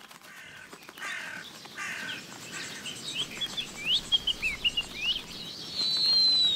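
Bird calls: a few harsher calls in the first couple of seconds, then a run of short rising and falling chirps, ending in one long falling whistle near the end.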